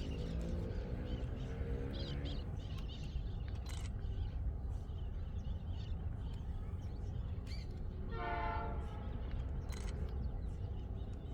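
Freight train rumbling steadily past, with a locomotive horn tone trailing off in the first half second and a second short horn blast about eight seconds in.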